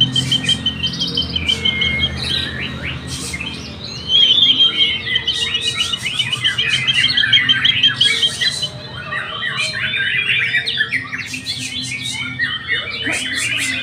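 White-rumped shamas singing: fast rattling trills alternate with dense runs of varied whistled and chattering notes, over a low steady hum.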